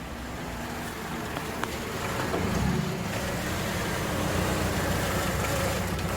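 Car engine running steadily, its sound growing a little louder about two seconds in.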